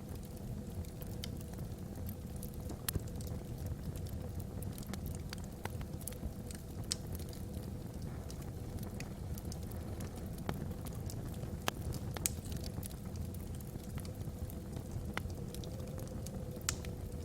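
Wood fire burning in a fireplace, crackling with scattered sharp pops over a low, steady rumble. A soft wind howls faintly through the chimney in the background, its pitch rising slightly near the end.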